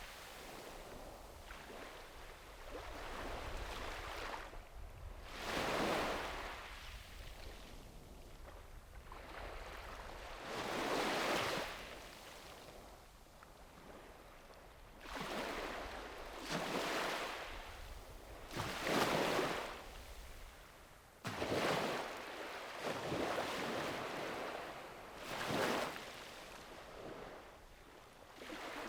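Small sea waves breaking and washing up a beach, one surge after another every few seconds, each swelling and fading away.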